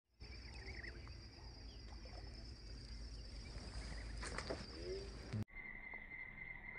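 Faint outdoor ambience: a steady high insect drone over a low rumble, with a few short chirps. An abrupt cut about five and a half seconds in switches to a lower steady insect drone.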